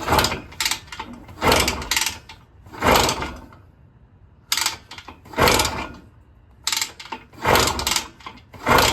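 Kick-starter being kicked over and over, cranking the Minarelli P4-70 two-stroke engine of a 1974 Indian SE74 with a compression gauge in the plug hole, so it turns over without firing. Each kick gives a burst of clattering mechanical noise, about one a second, with a short break a little before the middle. The cranking carries a crunching from the bottom end, which the owner hopes is just the magneto.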